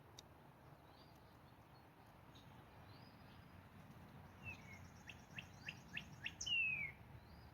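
Wild birds calling over faint outdoor hiss: scattered downward-sliding whistled notes, a fast high trill in the second half, a short run of sharp chips, and a louder downslurred call near the end.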